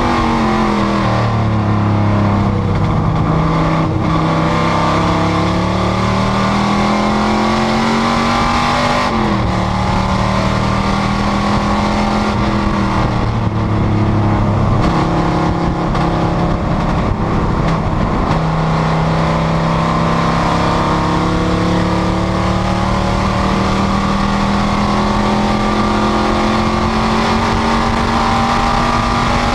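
Panoz GTS race car's engine at racing speed, its note climbing slowly under acceleration and dropping sharply several times as it shifts or lifts, then climbing again.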